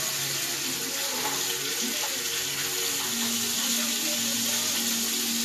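Chicken frying in hot oil: a steady sizzle.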